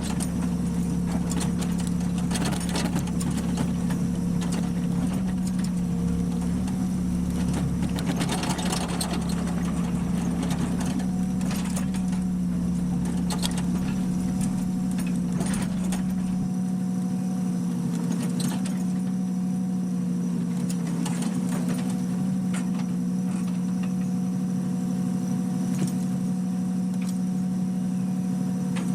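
A steady mechanical hum at one unchanging pitch, over a low rumble that drops away about 16 seconds in, with a few faint clicks.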